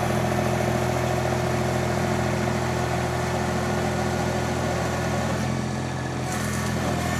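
Mini skid steer engine running steadily under hydraulic load while the loader arms lift a heavy pallet of concrete blocks toward full lift height. The sound eases a little about five and a half seconds in.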